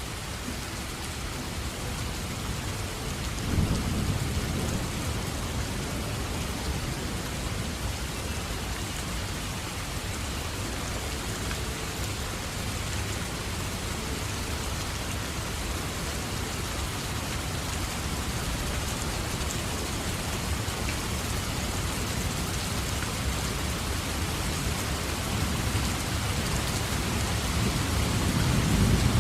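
Steady rain falling throughout, with thunder rumbling over it: a sudden rumble about three and a half seconds in that rolls on for a second or two, and another building near the end.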